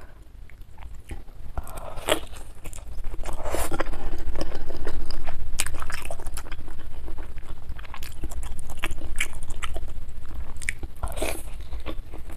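Close-miked chewing of a mouthful of spicy meatball soup with egg and glass noodles: wet, smacking mouth sounds with many small clicks, busiest from about two seconds in.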